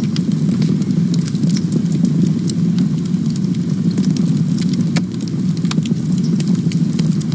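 Campfire burning, a steady low rumble of flames with frequent sharp crackles and pops from the burning wood.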